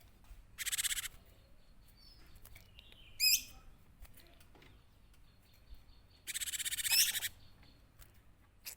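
Cinereous tit (gelatik batu) calling: a short harsh buzzy chatter, then a sharp whistled note, then a second, longer buzzy chatter with whistled notes mixed in.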